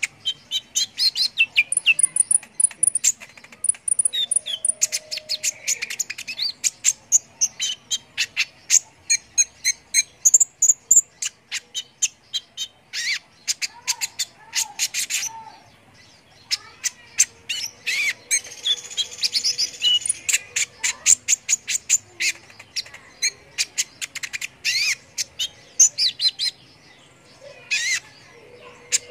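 Small songbirds chirping and twittering in fast, high-pitched runs of sharp chips and short trills, almost without pause.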